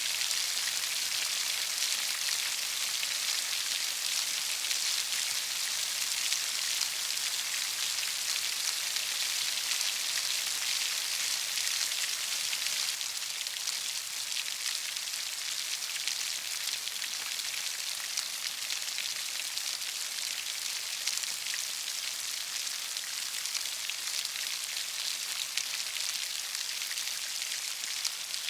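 Heavy rain falling steadily: a dense, even hiss of countless drops, with no thunder. It eases slightly about halfway through.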